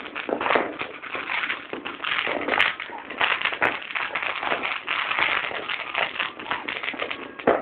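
Fireworks crackling and popping: many small bangs in quick, irregular succession.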